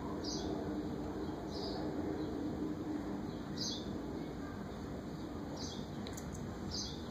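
A small bird chirping: five short, high chirps spaced one to two seconds apart, over a steady low hum.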